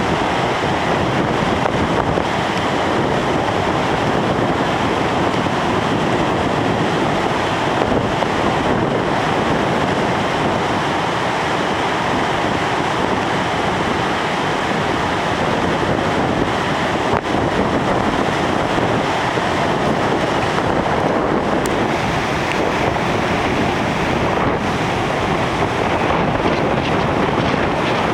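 Heavy hurricane-driven surf breaking, with strong wind buffeting the microphone. Loud, steady and unbroken.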